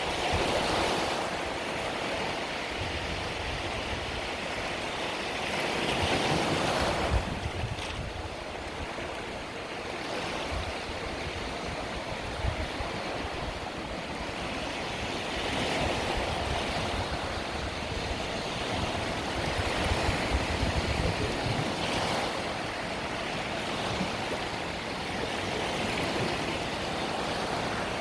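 Mediterranean sea waves washing onto the shore, a steady surf with swells breaking every few seconds, some stronger than others.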